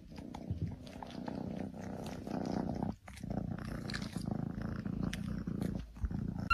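Domestic cat purring steadily, with a short break about three seconds in.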